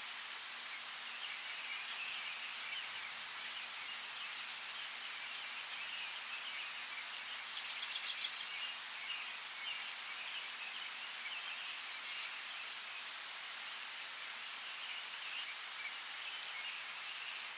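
Steady light rain with birds chirping throughout. About eight seconds in, a bird gives a quick run of about six high, loud chirps, the loudest thing heard, and a short high trill follows a few seconds later.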